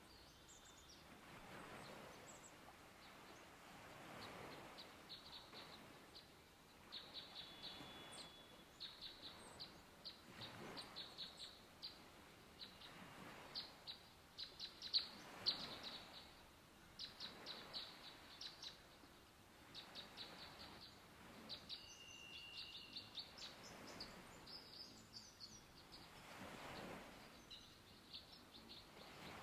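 A small bird chirping in quick runs of short, high notes, over a faint rushing noise that swells and fades every few seconds.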